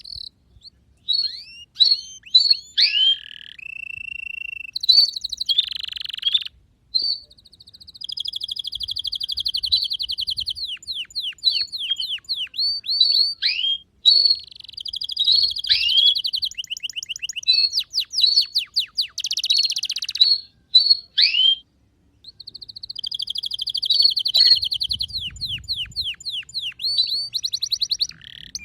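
Domestic canary singing a long song of fast trills and rolls mixed with quick sweeping chirps, broken by brief pauses a few times.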